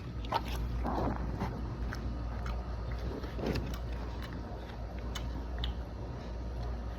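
A person biting into and chewing a footlong sandwich, with small scattered clicks and crunches over a low steady hum.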